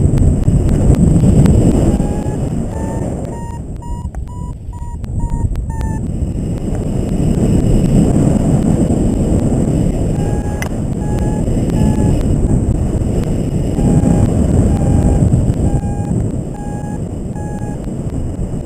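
Paragliding variometer beeping in strings of short electronic tones, higher and quicker about four to six seconds in, the sign that the glider is climbing in lift. Heavy wind noise on the microphone from the airflow in flight runs under it.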